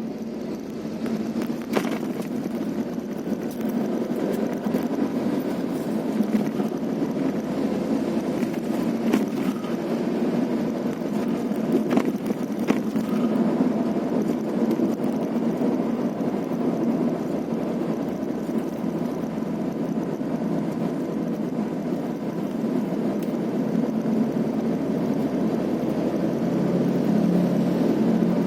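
Vehicle engine running steadily while driving, with road noise and a few sharp knocks.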